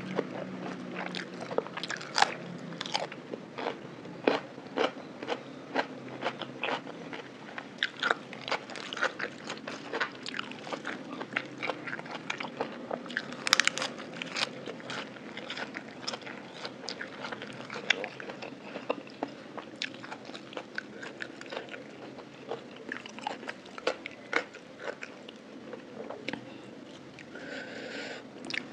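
Close-miked eating sounds of raw shrimp in spicy lime dressing wrapped in lettuce: a steady run of short, sharp bites and wet chewing clicks.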